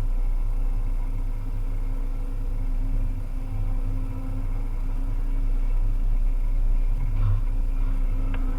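Volvo EC300E excavator's diesel engine running steadily with a low hum, and a short knock near the end.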